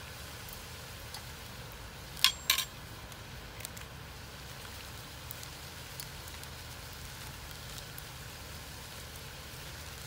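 Chicken pieces frying in a steel karahi over a wood fire: a steady sizzle with a few faint crackles, and two sharp clinks about two seconds in.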